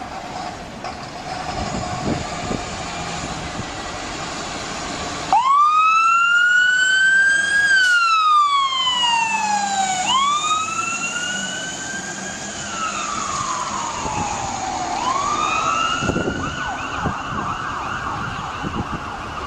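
Fire engine's siren wailing: it starts abruptly about five seconds in, then rises and falls slowly in pitch, over road and vehicle noise.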